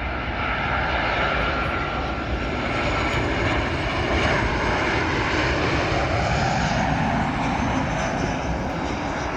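Boeing 737-700 jet airliner with CFM56 turbofan engines passing low overhead on landing approach. A steady rushing jet roar builds over the first second and then holds.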